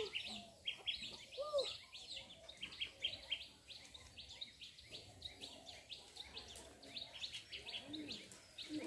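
Birds chirping: many short, high calls repeating throughout, faint, with a couple of lower arching notes.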